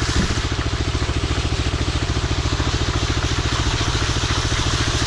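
Power trowel's engine running steadily with a fast, even pulse as the machine floats soft concrete on its first pass.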